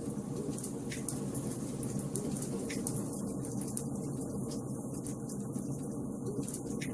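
Wood fire burning in a fireplace: a steady low rush of burning logs with frequent sharp crackles and pops scattered throughout.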